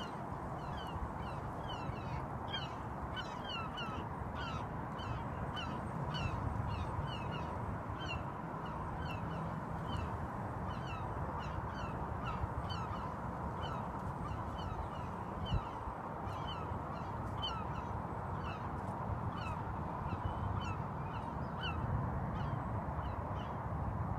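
A bird calling over and over with short, high, falling chirps, about two a second, against a low outdoor rumble.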